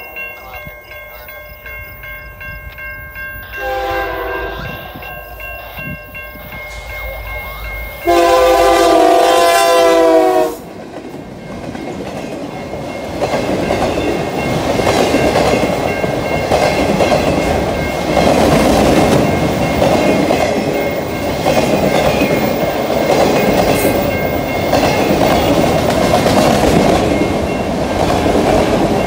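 Freight locomotive's multi-chime air horn sounding at a level crossing, with a short blast about 4 seconds in and a long, loud blast that ends about 10 seconds in. Then the train rolls through the crossing with a steady rumble and the clatter of wheels on rail joints.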